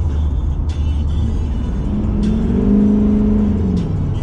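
Duramax diesel pickup's engine running under a steady low drone. About two seconds in, a pitched engine tone rises and holds, then fades out near the end, as the truck pulls away.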